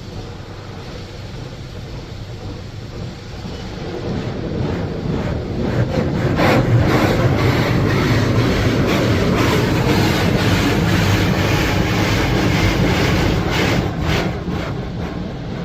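WashTec SoftCare 2 Pro touchless car wash gantry passing over the car, its spray beating on the bodywork, heard from inside the cabin with a low rumble under it. It swells about four to six seconds in, stays loud, then eases off near the end.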